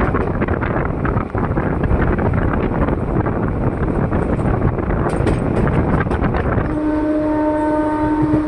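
Howrah–Katihar Express running at speed, heard from inside an ICF coach: loud rumble and rattle of the wheels on the track. About two-thirds of the way in, a long, steady horn note starts and holds.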